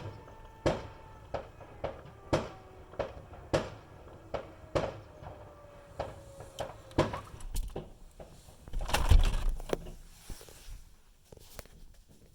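Fireworks going off: a quick series of sharp bangs, roughly one every half second, with faint falling whines through the first half. About nine seconds in comes one bigger, rumbling boom.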